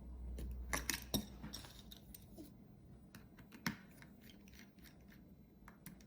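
Faint clicks and taps of a small precision screwdriver against a hard drive's metal casing and screws: a quick cluster about a second in, and one more sharp click a few seconds later.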